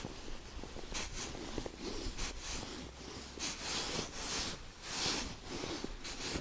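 Irregular rustling and rubbing: a string of short hissy swishes, about one or two a second.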